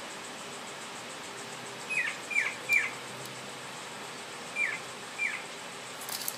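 Five short, high bird chirps, each sliding downward in pitch: three in quick succession, then two more spaced apart. A few faint clicks come near the end.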